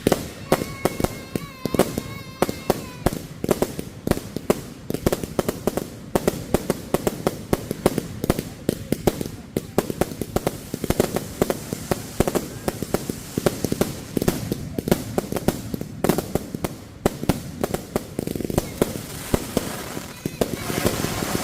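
Fireworks going off in a rapid, continuous barrage of bangs and pops, several a second, with a short whistling tone about a second in.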